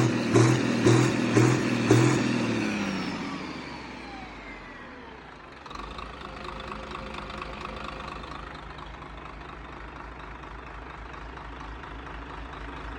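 Engine revving in short pulses about twice a second, then dropping off with a fading, falling whine. From about six seconds in it settles into a quieter steady running.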